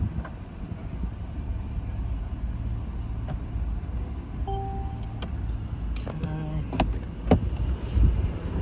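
Mercedes-Benz E450 Cabriolet's power soft top being lowered: a short motor whine and several sharp clicks of the top mechanism over a steady low rumble.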